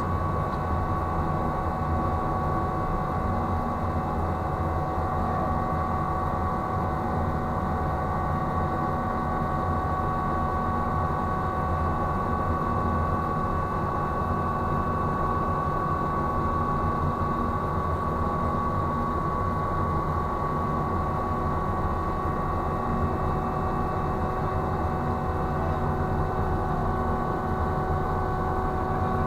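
Ship's crane winch machinery running steadily at slow speed: a constant low hum with a steady high whine over it.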